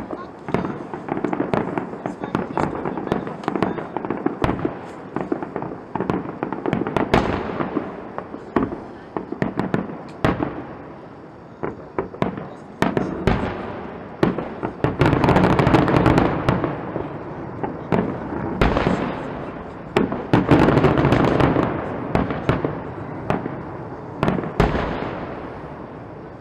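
Fireworks display: a steady run of bangs and crackling, building to two dense, loud volleys about midway and again a few seconds later, then thinning out near the end.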